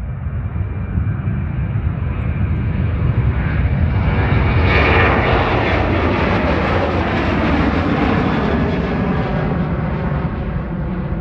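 Boeing 737-800 jet's two CFM56-7B turbofans at takeoff power as the airliner passes close by, swelling to its loudest about five seconds in and then slowly fading with a steady low rumble underneath.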